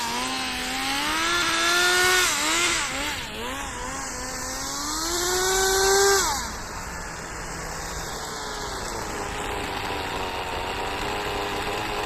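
Small engine of a radio-controlled drift car revving up and down in quick blips. It climbs to one long high rev about six seconds in, then drops back to a steady idle.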